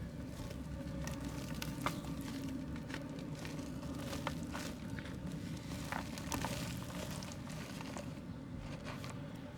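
Soft mud crumbled and broken apart by hand: irregular crisp crackles and small snaps over a low steady hum.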